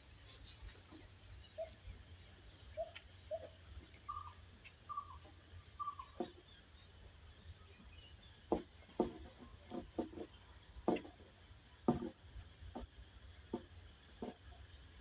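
Outdoor nature ambience over a steady low rumble. A bird gives a few short, low chirps, three and then four in quick series. From about halfway on comes an irregular run of soft knocks or clicks.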